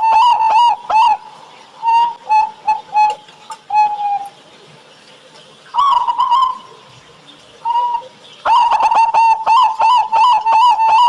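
Zebra doves (perkutut) cooing: fast runs of short, clipped coos. One run is heard at the start, then scattered single coos and a short burst with gaps between. Another long run begins a little past the middle.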